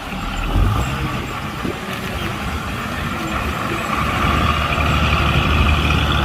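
Heavy diesel engine of a truck or earthmoving machine running under load, growing louder about four seconds in.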